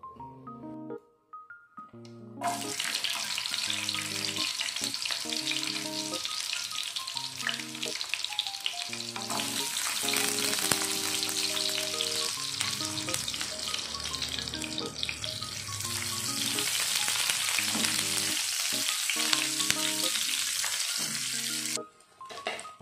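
Sliced shallots and garlic sizzling in hot oil in a frying pan as the spice base is sautéed, stirred with a wooden spatula. The sizzle starts about two seconds in and cuts off abruptly near the end, with light background music under it.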